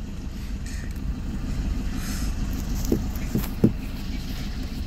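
Car engine running slowly with a steady low rumble, heard from inside the car's cabin, with a few short faint sounds about three seconds in.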